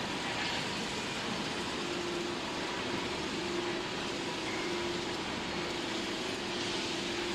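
Steady workshop machinery noise: an even rushing noise with a faint steady hum running through it.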